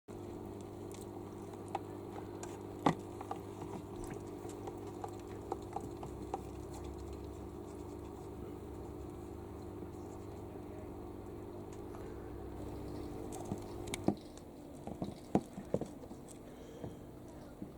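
A steady motor hum that stops abruptly about 14 seconds in, followed by scattered light clicks and taps.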